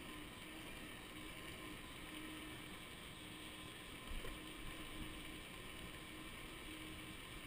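Riding noise on an electric bicycle: wind on the microphone and rolling noise, with a steady whine from its Golden Motors 48-volt 1000-watt rear hub motor that comes and goes. A brief thump about four seconds in.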